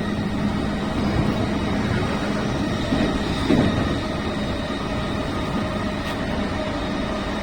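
Keiyo Line train heard from inside the car: a steady running rumble with a faint constant hum.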